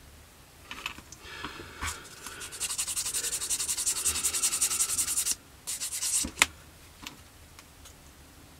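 Plastic model-kit part being sanded in rapid back-and-forth strokes, about seven a second for roughly three seconds, to take it down where it fitted badly. A few handling clicks and one sharp knock follow.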